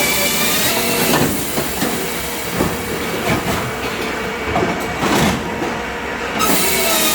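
Firewood-cutting machinery for oak logs running, with a high whine and metallic squeals. Irregular knocks and cracks sound through the middle, and the whine comes back about six seconds in.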